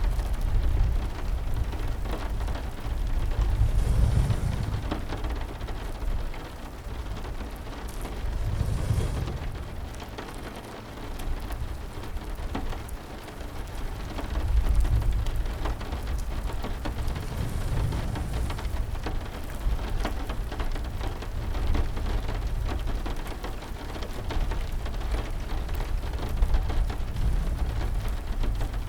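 Steady heavy rain, with low rumbles of thunder swelling and fading several times.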